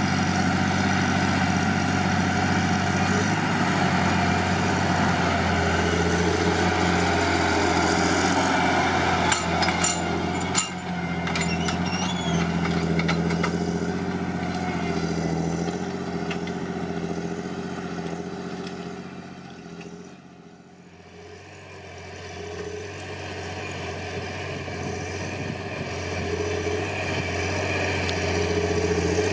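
John Deere 8520T tracked tractor's 8.1-litre six-cylinder PowerTech diesel running steadily while pulling a four-furrow plough. A couple of sharp clicks come about ten seconds in, and the engine fades away about two-thirds of the way through before growing louder again near the end.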